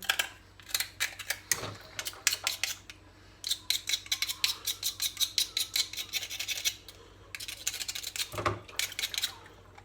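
Mussel shells clicking and clattering against one another as they are handled during cleaning, in quick runs of sharp clicks with short pauses between them.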